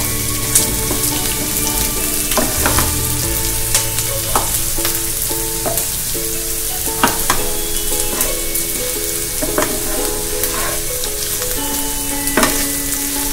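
Chopped onion and green chillies sizzling in hot oil in a frying pan, stirred with a wooden spatula that scrapes and taps against the pan again and again.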